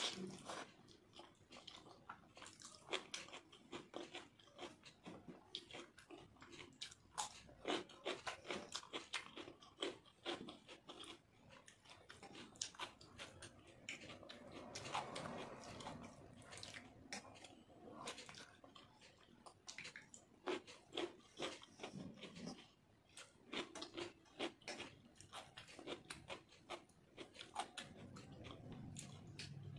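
Close-up chewing and wet lip-smacking of rice, dal and mashed potato being eaten by hand, in a quick, irregular run of clicks and smacks, with squishy sounds of fingers mixing rice and dal on a steel plate.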